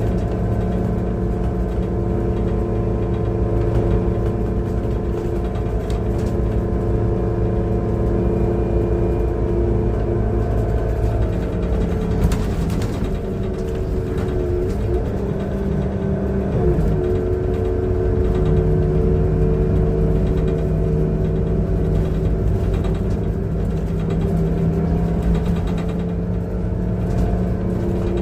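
Transperth city bus TP1422's engine running under way: a loud, steady drone of several tones that wavers and shifts in pitch around the middle as speed changes, then settles again. The uploader calls it a bad engine sound.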